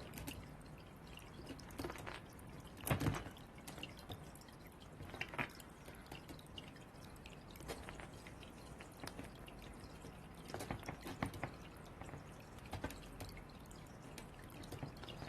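Irregular light taps and clicks over a steady background, with a louder knock about three seconds in.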